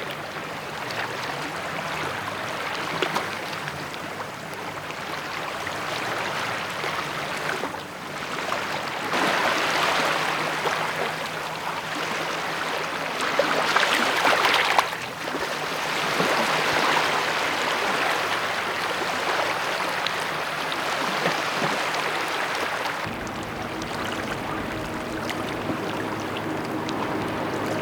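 Steady rushing water noise at a lake beach, swelling louder twice, around ten and fourteen seconds in. About 23 seconds in a low hum with faint steady tones joins it.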